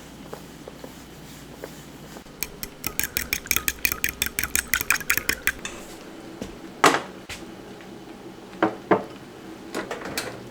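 A kitchen utensil beating quickly against a bowl, about seven strokes a second for some three seconds, followed by a few separate sharp clinks of dishes and cutlery.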